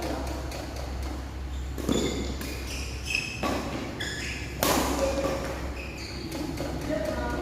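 Badminton rackets hitting the shuttlecock in a rally: three sharp hits, about two, three and a half, and four and a half seconds in, the last the loudest. Short high squeaks come between the hits, with a reverberant hall sound.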